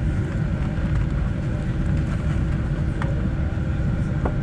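Steady low rumble inside the cabin of a Boeing 747-8 on the ground, with a faint steady hum and two light clicks about three and four seconds in.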